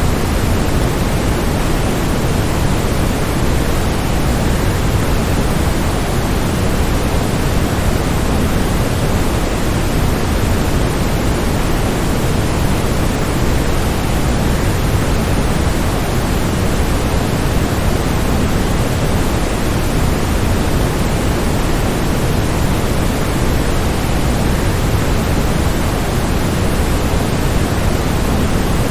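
Waterfall rushing in a steady, unbroken roar, deepest in the low end, with no splashes or changes.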